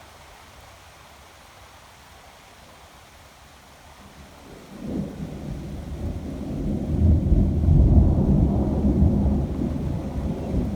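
Thunder: a low rumble starts suddenly about halfway in, builds to a peak and slowly eases, over a faint steady hiss of rain.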